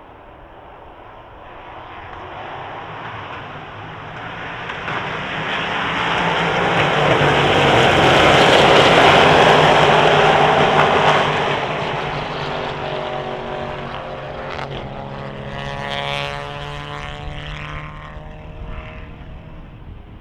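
Endurance race car approaching, passing at speed and fading away, loudest about halfway through. As it moves off, its engine note falls steadily in pitch.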